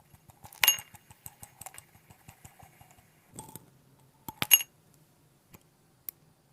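Hard objects being handled: a run of small quick clicks, several a second, with two sharp ringing clinks, one near the start and a louder one about two-thirds of the way through.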